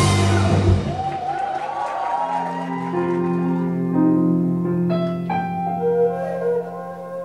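Live band music: a loud full-band passage cuts off at the start, then a keyboard plays slow, sustained chords over a held low note, with a new chord struck every second or so.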